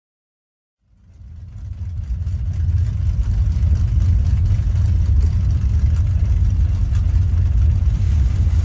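Steady low rumble of a car on the move, fading in about a second in and then holding level.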